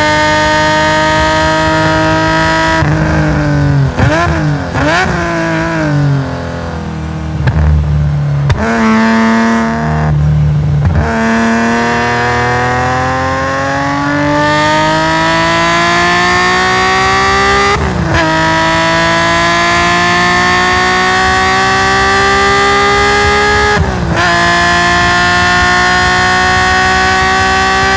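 Race-tuned Nissan S20 twin-cam straight-six of a Hakosuka Skyline GT-R, heard onboard at high revs. About three seconds in, the revs drop and waver through throttle blips as the car slows for a corner. It then accelerates in long rising pulls, broken by two quick upshifts about ten and sixteen seconds later.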